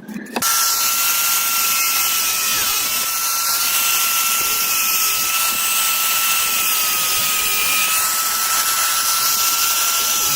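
Handheld electric power tool starting abruptly and running at a steady speed, with a constant high motor whine over a loud hiss.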